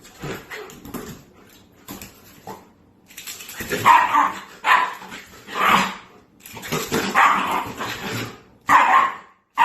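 A dog barking repeatedly, in short separate barks that grow louder about four seconds in.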